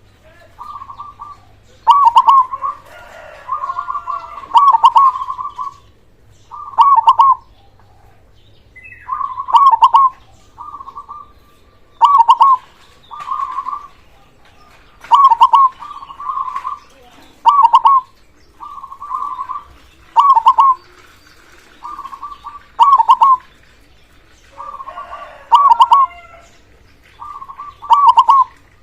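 Zebra dove (perkutut) cooing, loud and full-voiced. Its phrase repeats about every two to three seconds, each a shorter lead-in note followed by a louder quavering coo, with fainter bird calls between phrases.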